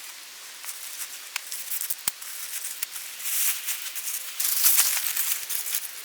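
Rain falling, a steady hiss of drops with many sharp individual drip ticks. It swells heavier briefly past the middle and again in a longer burst later.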